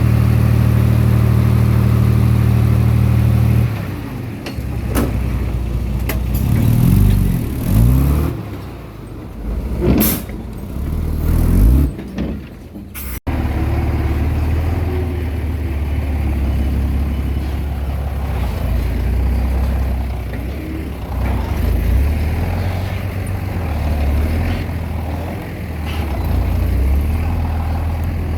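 Komatsu D20P bulldozer's diesel engine running steadily, then revving up and down several times with a few sharp knocks. It breaks off abruptly about 13 seconds in and then runs steadily again.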